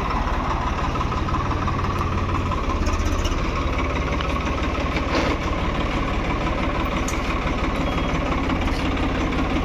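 Combine harvester's diesel engine idling steadily, with an even low throb.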